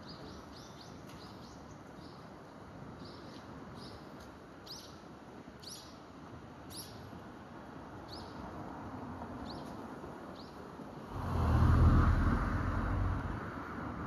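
About a dozen short, high bird chirps, spaced irregularly through the first ten seconds. About eleven seconds in, a loud low rumbling noise swells and fades over a couple of seconds.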